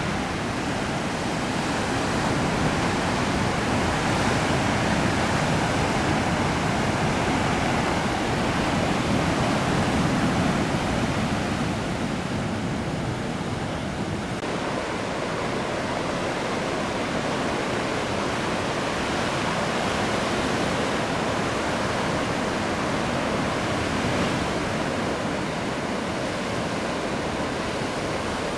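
Heavy ocean surf from a large typhoon swell, a steady rush of breaking waves and whitewater with no distinct single crashes.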